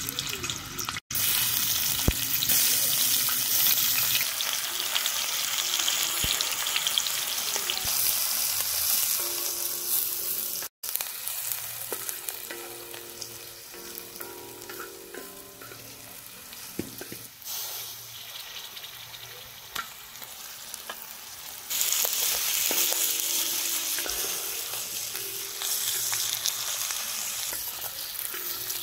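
Chicken frying and sizzling in butter in a pan while it is stirred. The sizzle is louder for the first ten seconds or so, drops lower in the middle, and rises again about twenty-two seconds in. Two brief dropouts break it, near one second and near eleven seconds.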